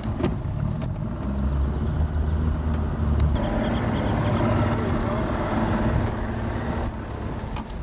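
Motorboat engine running steadily under a continuous low rumble, with wind and water noise on the camcorder microphone and faint muffled voices.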